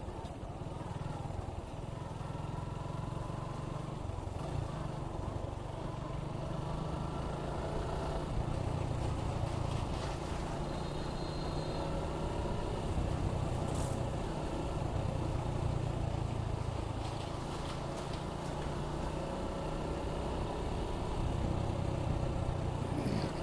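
Suzuki Gixxer 155's single-cylinder engine running steadily while riding, mixed with heavy wind buffeting on an externally mounted microphone, giving a continuous low rumble.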